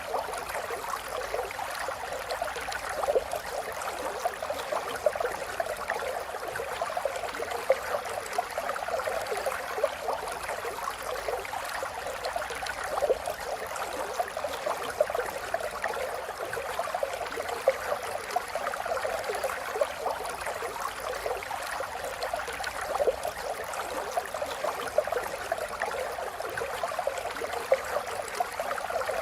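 River water flowing steadily over stones, a continuous babbling and gurgling with many small splashes.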